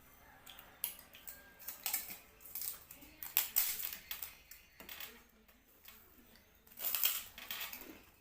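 Close-miked eating sounds: wet chewing, smacking and sucking at a fish-head curry, in irregular bursts of sharp clicks, loudest about a third of the way in and again near the end.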